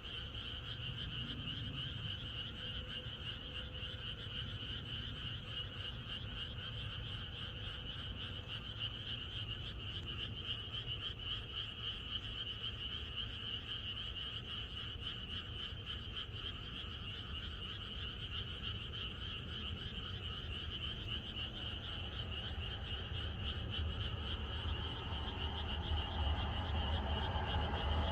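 A chorus of many frogs croaking together in a dense, steady, fast-pulsing din. A low rumble grows louder near the end.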